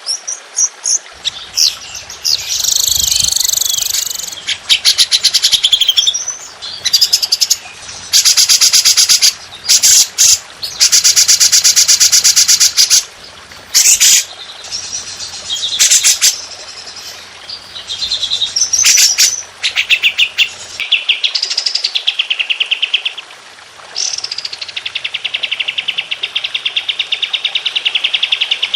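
Songbird song from a mixed 'masteran' training recording: loud, rapid-fire trills ('tembakan'), with bursts of very fast repeated notes lasting a second or two and long dense trills in the last few seconds.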